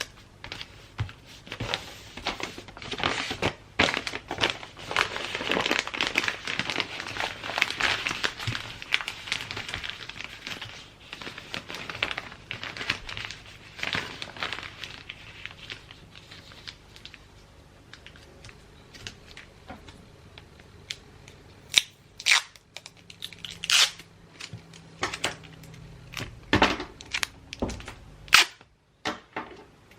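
Gift-wrapping paper being handled, crinkling and tearing densely through the first half, then sparser, sharper crackles and taps toward the end.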